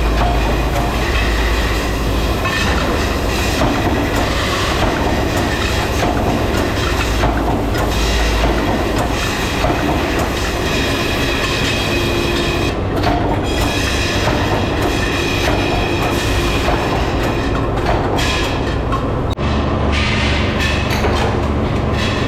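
Motorcycle-rim production machinery running loudly, with continuous metallic rattling and clanking. The sound changes abruptly about nineteen seconds in.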